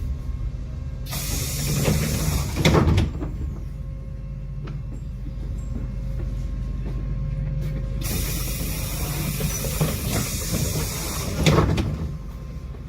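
Tram's pneumatic doors at a stop: a hiss of air for about two seconds ending in a knock, then about nine seconds later another long hiss ending in a knock, over the tram's low steady rumble.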